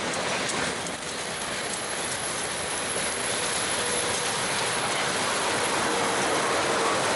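Freight train rolling on the rails, a steady wheel-and-rail rumble that grows gradually louder, with faint wheel squeal in the second half.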